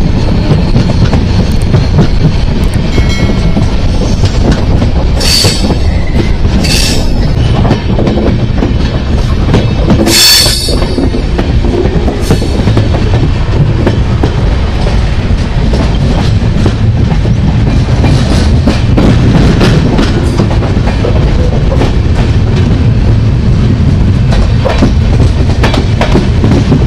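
A passenger train running, heard at an open coach door: a steady, loud rumble and rattle of wheels on the track, with a few short high-pitched squeals about five, seven and ten seconds in.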